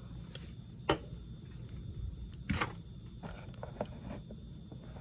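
A small die-cast metal toy car being handled: two sharp clicks, about a second in and more loudly about two and a half seconds in, then a few lighter ticks, over a steady low background hum.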